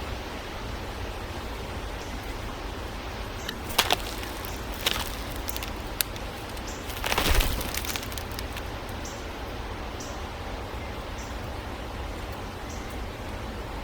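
Birds' wings fluttering in a brief whoosh about seven seconds in, with a few sharp clicks just before it, over a steady outdoor hiss.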